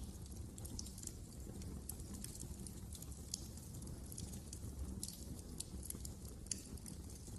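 Wood fire in a fireplace crackling, with frequent irregular pops and snaps over a low, steady rumble of the flames.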